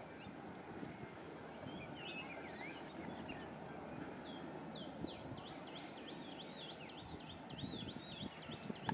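Small birds chirping, with a fast run of repeated high notes in the second half, over a steady low outdoor background noise.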